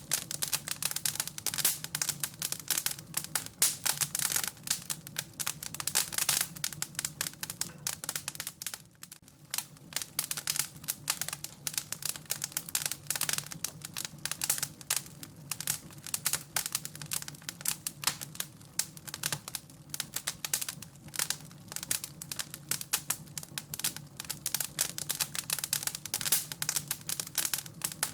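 Wood fire in a fireplace crackling and popping: a dense, irregular run of sharp crackles that thins briefly about nine seconds in.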